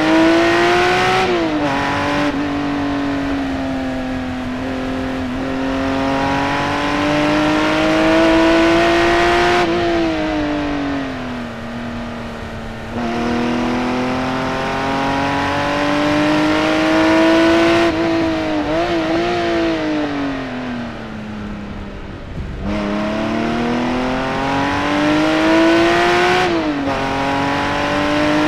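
Singer-reimagined Porsche 911's naturally aspirated flat-six engine at full throttle on a hot lap. The pitch climbs through the gears, drops sharply at each change, and falls away twice under braking before rising again.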